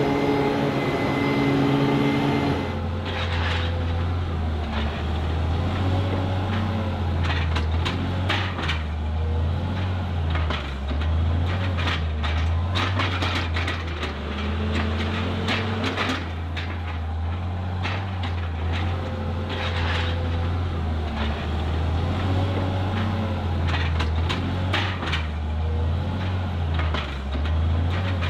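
Heavy diesel farm machinery running at work, with a deep pulsing drone and scattered knocks and clatter. The sound changes abruptly a little over two seconds in, from one steady engine tone to another machine's deeper drone.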